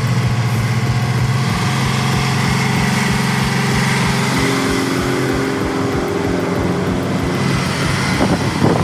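Heavy-haulage truck's diesel engine running under load, a steady low throb whose note steps up slightly about four seconds in.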